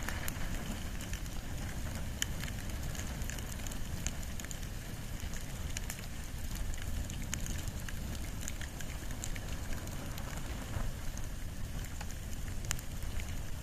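Fire of wood and bamboo burning, with a steady low rumble under irregular sharp crackles and pops, a few of them louder.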